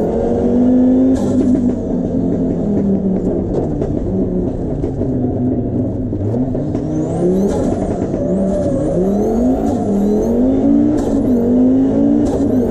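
Audi Quattro Group 4 rally car's turbocharged five-cylinder engine heard from inside the cabin, pulling hard through the gears. The engine note drops at a gear change about six seconds in, then climbs steeply, with a high whistle sweeping up and down over it and a few sharp pops near the end.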